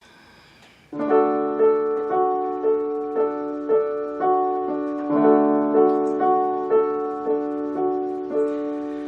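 Piano or keyboard playing an instrumental intro: sustained, overlapping notes picked out one after another, a new note about every half second, starting about a second in.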